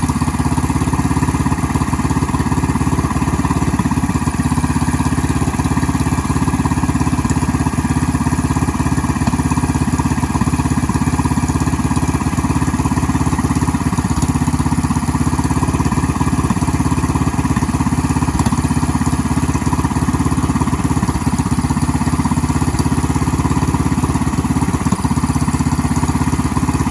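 BT420X minibike's small single-cylinder engine idling steadily, with no revving. The owner wonders whether the idle is set a bit high.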